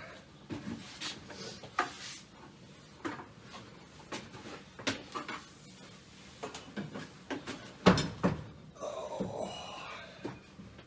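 Hand tools and hardware being handled: scattered knocks and clicks, with one sharp knock about eight seconds in followed by a brief scraping, ringing sound.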